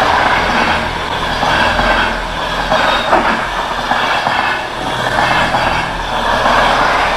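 Loud freight train passing close by: a steady rumble and rattle of the wagons rolling over the rails, with a few brief clicks about three seconds in.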